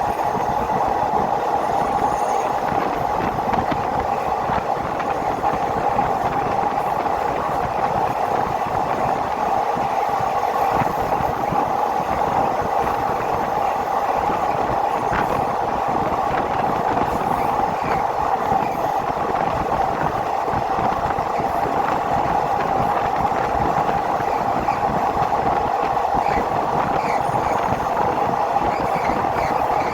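A passenger train running steadily along the track: a constant, even rumble of wheels on rail with no pauses.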